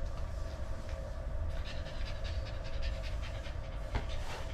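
Small dog panting rapidly close by, in quick even breaths.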